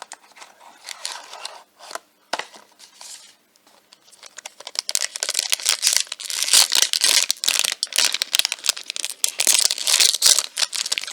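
Packaging around a blind-box toy being handled, with light rustling at first, then from about four seconds in a dense, loud crinkling and tearing as the wrapper is ripped open.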